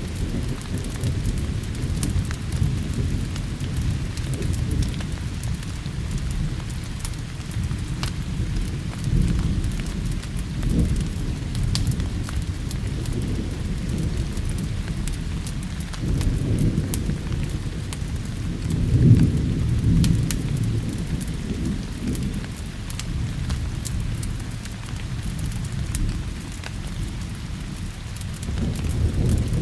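Steady rain with low rolling thunder rumbling throughout, swelling to its loudest about two-thirds of the way in, with scattered sharp crackles over the hiss of the rain.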